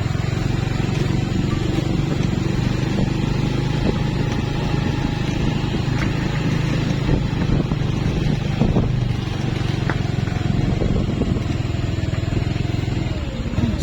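Vehicle engine running with a steady low drone while travelling; the engine note eases off near the end.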